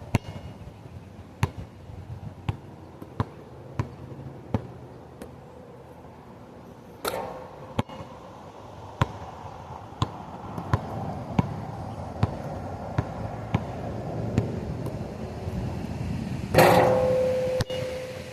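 Basketball bounced repeatedly on hard ground, about one bounce every two-thirds of a second. Two louder hits come about 7 s and 16.5 s in; the second leaves a ringing tone, like a shot clanging off a metal rim.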